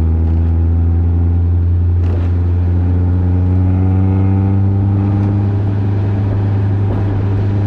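Car engine and road noise heard from inside a moving car, with a constant low drone. The engine note climbs gradually as the car accelerates, then holds steady at cruising speed.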